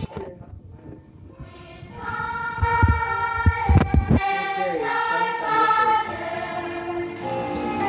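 Music with high, child-like singing voices holding long notes. It is quiet for about the first two seconds, then the singing comes in steadily, with a few low knocks partway through.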